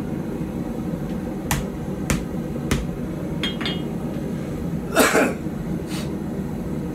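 Steady running noise of a forge, with a handful of sharp, irregularly spaced metal clinks and knocks from tools being handled; the loudest and longest comes about five seconds in. The puukko blade is heating in the fire, not yet being hammered.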